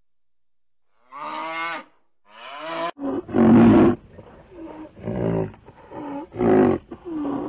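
Animal calls: two short pitched calls, then a run of louder, deeper calls from about three seconds in.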